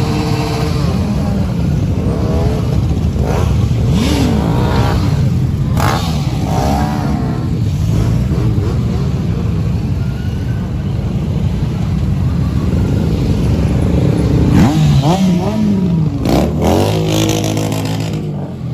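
Many motorcycle engines running together, with bikes revving up and down in pitch over a steady rumble; the loudest revving comes past the middle.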